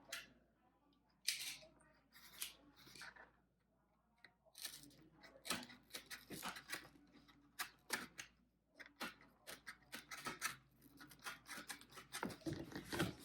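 Cardboard from a pizza box being cut by hand: a run of short, irregular cutting sounds, sparse at first, then steady and busy from about four and a half seconds in.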